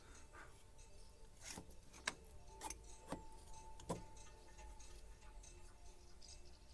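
A handful of light clicks and taps, about five in two and a half seconds near the middle, as engine parts are handled during assembly, over faint steady background tones.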